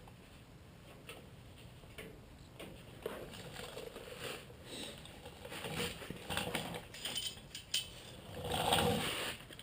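Scattered clinks, taps and scrapes of hand tools and sheet metal being handled, irregular and unhurried, with a louder scrape near the end.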